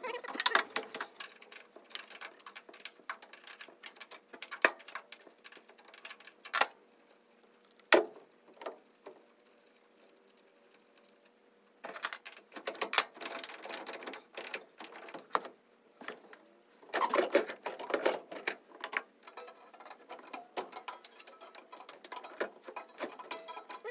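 Hand tools clicking and knocking against metal parts under a car, in irregular runs of rapid clicks with a few sharper knocks, and a quiet stretch about nine to twelve seconds in.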